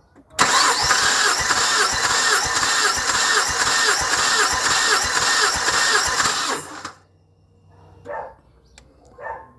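Car engine cranked on its starter motor without firing, during a compression test with a gauge screwed into the first cylinder: a loud, rhythmic, even churning that begins about half a second in and stops abruptly after about six seconds.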